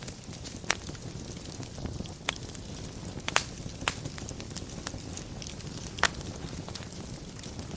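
Wood fire burning in a fireplace: a steady low noise of the flames with light crackling, broken by a handful of sharp pops from the burning logs.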